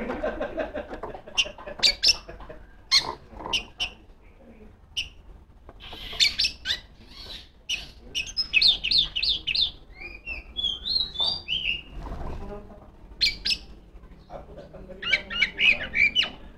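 Oriental magpie-robin (kacer) singing in bursts of rapid, sharp whistled and chattering notes separated by short pauses. The phrases are busiest about halfway through and again near the end.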